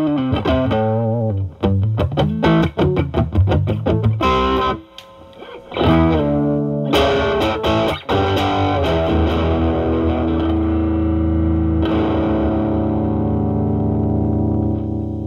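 Stratocaster played through a Ceriatone Centura Klon-clone overdrive pedal into a Marshall Valvestate amp's drive channel, with the overdrive cleaned up. Quick single-note lines, a short break about five seconds in, then a few notes and a chord left ringing, slowly fading over the last several seconds.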